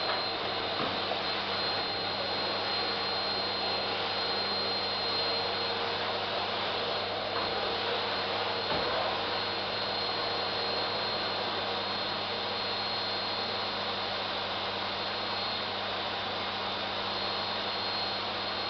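Vacuum cleaner running steadily: an even motor rush with a constant hum and a thin high whine over it.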